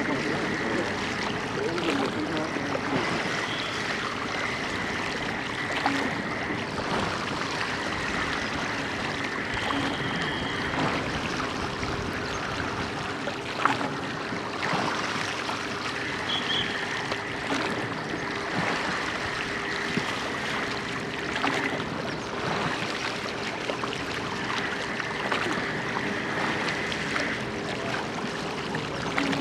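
Water rushing and splashing along the hull of a church boat (a large multi-oared rowing boat) as it is rowed, with faint oar strokes about every two seconds. A steady hum runs underneath, and a higher whine comes and goes.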